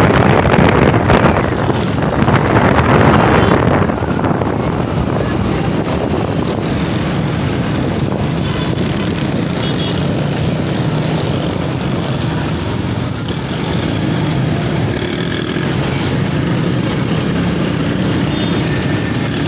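Road traffic heard on the move in city streets. A louder rush of noise fills the first four seconds, then a steady hum of engine and road noise, with faint high tones here and there.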